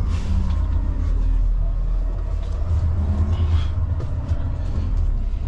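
Semi-truck diesel engine running at low speed: a steady low rumble.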